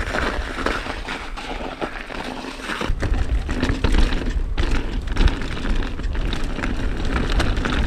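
Ibis Ripmo mountain bike ridden fast down a snowy dirt trail: tyre noise and the rattle and clatter of the chain and frame over rough ground, with wind rushing over the microphone that grows louder from about three seconds in.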